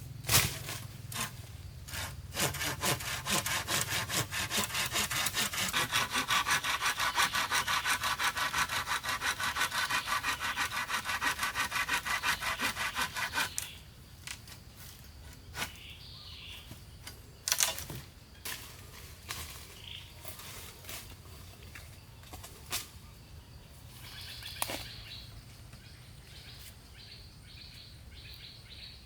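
Hand saw cutting through wood in quick, even back-and-forth strokes for about ten seconds, then stopping. A few separate knocks of wood follow.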